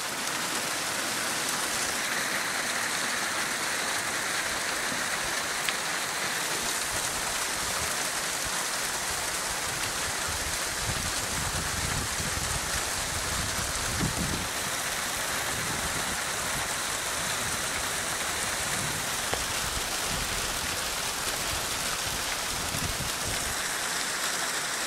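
A hail shower falling steadily: a dense, even patter of hailstones on the ground and surfaces.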